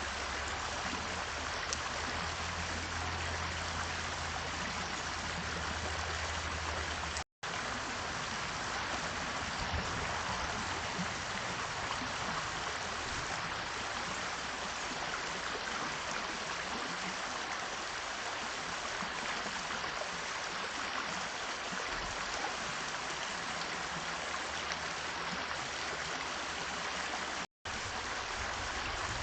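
Steady rushing, water-like noise, broken by two brief silent dropouts, one about seven seconds in and one near the end.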